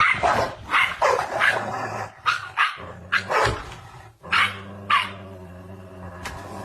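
A dog barking: about ten short, sharp barks, quick at first and then more spaced out. A low steady drone runs underneath in the second half.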